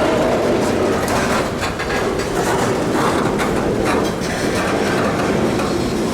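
Canadian Pacific freight train rolling slowly past, its wheels clicking over the rail joints with a steady rumble.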